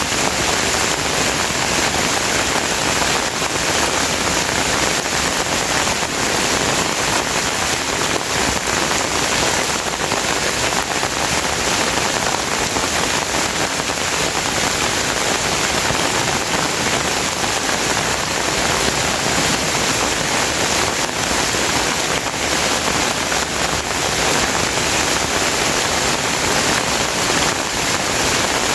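Steady rain falling on surfaces, a dense even patter of many drops.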